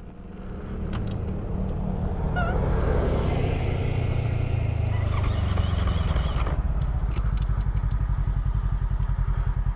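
KTM 450 SX-F single-cylinder four-stroke dirt bike engine running, then settling into a steady, evenly pulsing idle about six and a half seconds in.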